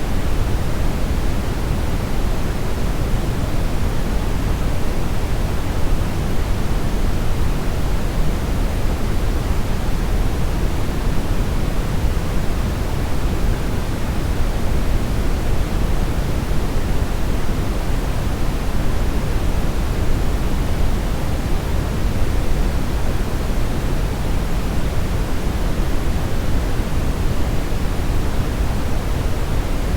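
Steady brownish noise: an even, unbroken hiss-like rumble, strongest in the deep bass and fading toward the treble.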